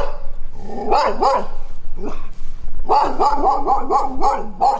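An animal's barking calls: a few separate barks, then a fast run of yelping calls over the last couple of seconds.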